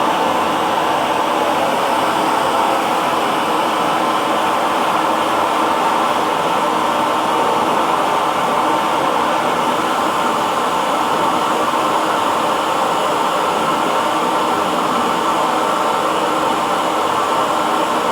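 Hair dryer running steadily on one setting: an even blowing hiss with a faint motor hum, no change in pitch or level.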